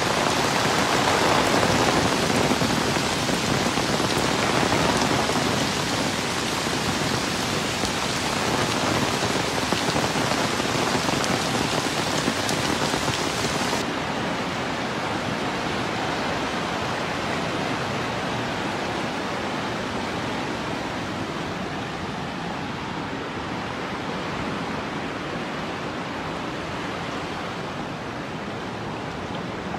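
Heavy rain pouring onto a flooded street, a dense, even hiss of water. About halfway through, the sound changes to a softer, duller rush of floodwater running across the road.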